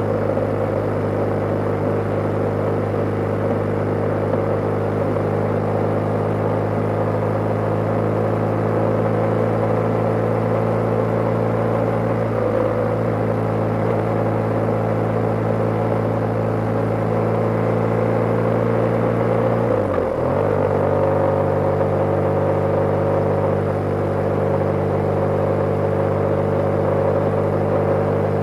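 BMW G/S motorcycle engine running steadily at cruising speed, heard from on board. Its note drops briefly about twelve seconds in and again, more deeply, about twenty seconds in, then settles back to a steady pitch.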